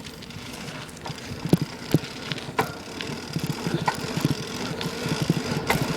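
Bicycle rattling and jolting over rough ground, picked up through a camera taped to the bike, with a fast buzzing rattle and several sharp knocks. It grows louder as the bike picks up speed.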